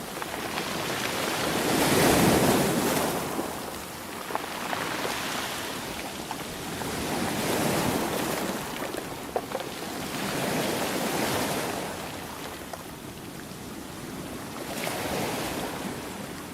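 Sea waves breaking and washing in, the surf swelling and fading about four times, a few seconds apart, over a steady hiss of foam.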